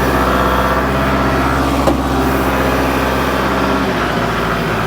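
Kubota L47 tractor-loader-backhoe's diesel engine running steadily under load as it works into hard-packed fill. A short knock comes about two seconds in, and the engine note changes just before the end.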